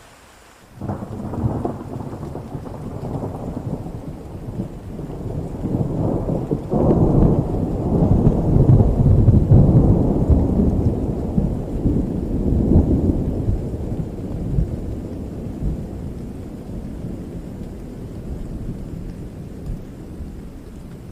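Thunder rolling over steady rain: a rumble breaks in suddenly about a second in, swells again near seven seconds and slowly fades.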